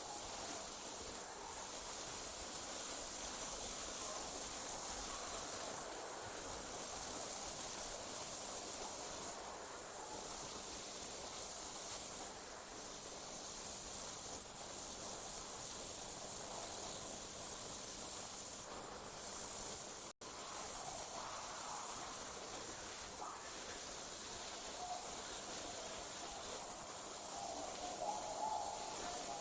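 Night crickets trilling in a steady, high-pitched chorus that breaks off briefly every few seconds, with a momentary dropout about two-thirds of the way through.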